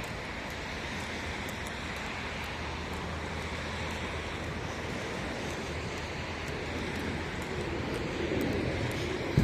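Steady street ambience: the even hiss of road traffic, slowly growing louder over the last couple of seconds as a vehicle draws nearer.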